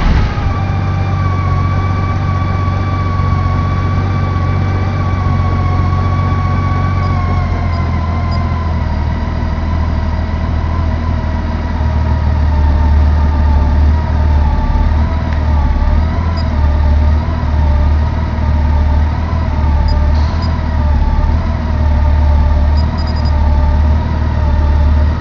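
2008 Honda GL1800 Goldwing's 1.8-litre flat-six engine idling steadily just after start-up. A faint whine in the sound steps down slightly about seven seconds in and then wavers.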